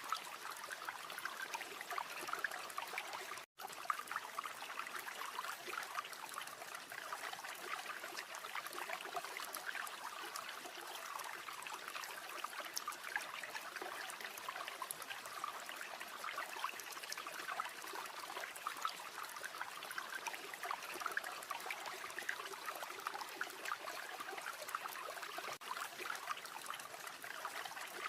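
River water flowing steadily in an even rushing trickle, with one split-second cut-out about three and a half seconds in.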